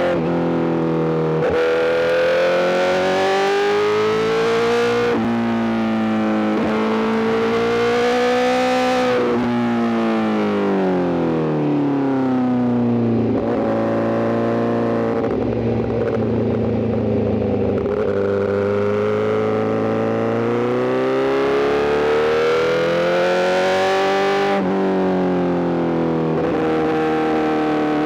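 Honda CBR1000RR-R SP inline-four engine through an Arrow GP full exhaust, ridden hard: its pitch climbs and falls several times, with short breaks between climbs as it shifts gears.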